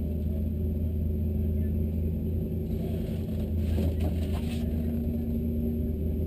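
Race car engine idling steadily, heard from inside the stripped cabin as a low, even hum, with a brief rustle of movement in the middle.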